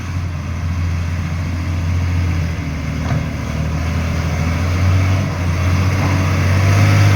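Heavy truck's diesel engine running under load as the truck drives out, rising in pitch and getting louder toward the end.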